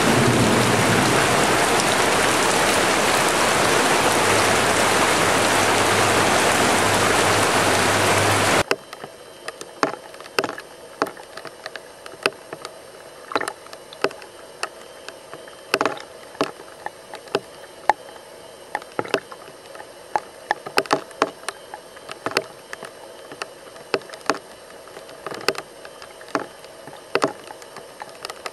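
Heavy rain falling in a loud, steady hiss, which cuts off abruptly about nine seconds in. After that, much quieter: scattered raindrops plopping irregularly into a rainwater puddle, one to a few sharp drips a second.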